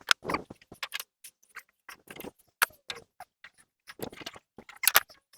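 Irregular clinks, clicks and knocks of hand tools and metal parts as a Lincoln welder is taken apart, with a louder cluster of knocks near the end.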